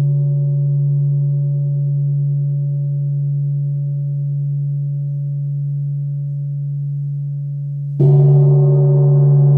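A gong rings with a deep, steady low tone and a few higher overtones, slowly fading. It is struck again about eight seconds in, with a bright attack, and rings on.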